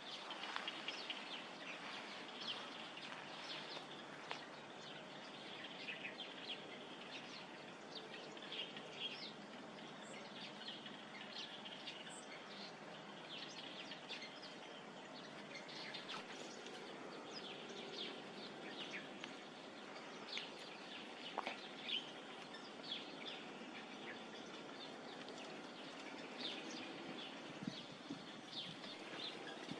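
Small birds chirping: many short, scattered chirps over a steady faint outdoor hiss.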